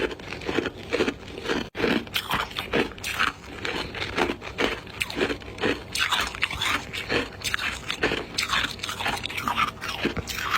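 Ice being bitten and chewed close to the microphone: a dense run of sharp, irregular crunches, with a momentary break about two seconds in.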